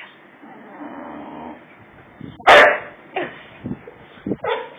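Boxer dog barking at its own reflection in a mirror: one loud bark about halfway through, followed by several shorter, quieter sounds.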